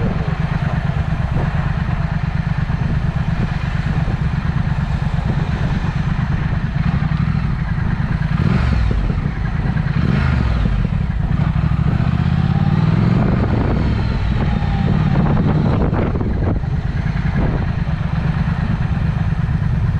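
Triumph Speed Twin's parallel-twin engine running through a Vance & Hines aftermarket exhaust while riding. The engine note rises and falls through the middle, with a short drop just past nine seconds.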